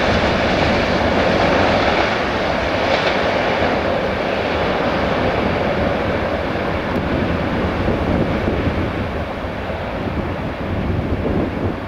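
Freight train of tank wagons rolling away along the rails, a steady rumble and rail noise that slowly fades as it recedes.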